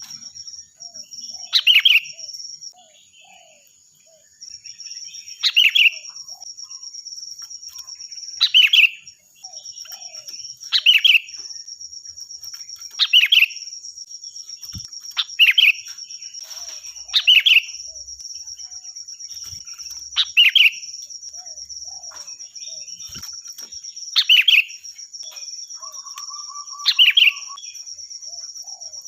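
Sooty-headed bulbul (kutilang) calling loudly, a short bright phrase repeated about every two to three seconds, around ten times. A steady high-pitched buzz runs underneath throughout.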